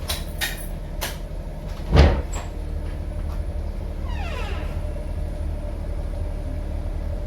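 Steady low rumble, like a vehicle running, with one heavy thump about two seconds in and a short squeal falling in pitch near the middle.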